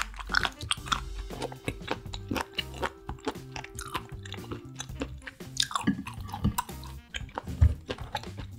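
Close-miked chewing of seafood, with many sharp clicks and wet mouth sounds, over background music with steady low notes.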